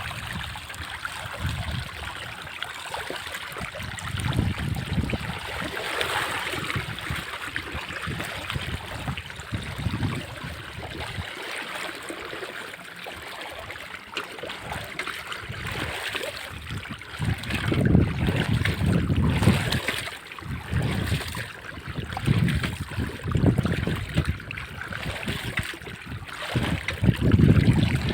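Floodwater rushing and churning, with irregular gusts of wind buffeting the microphone, stronger in the second half.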